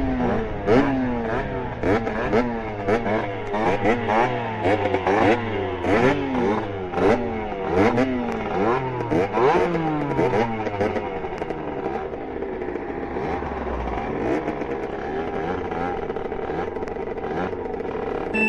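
Small two-stroke motorbike engine, a Beta RR 50 with a 70cc Airsal kit and an SCR Corse expansion exhaust, revving up and down in quick repeated bursts, about one or two a second, for the first ten seconds or so. It then settles to a steadier, lower run.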